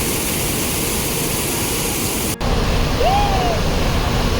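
Steady rush of a large waterfall, Hogenakkal Falls on the Kaveri river. The sound cuts abruptly a little past halfway to another take with less hiss in the highs, and a short call that rises and falls comes about three seconds in.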